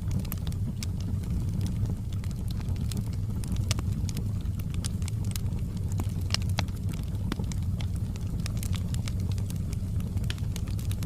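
Wood fire in a fireplace burning with a steady low rumble and many small, irregular crackles and pops.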